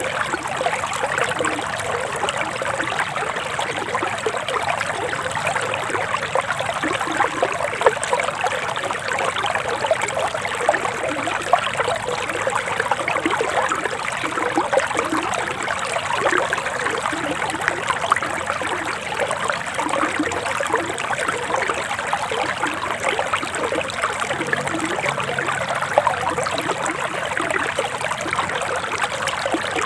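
Forest stream flowing steadily, a continuous babbling and trickling of running water.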